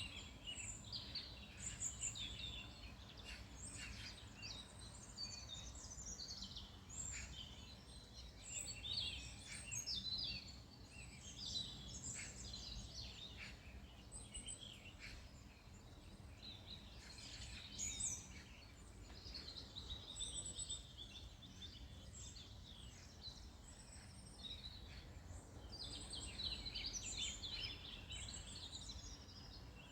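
Songbirds chirping and singing together, many short high calls and trills overlapping throughout, over a faint steady low rumble.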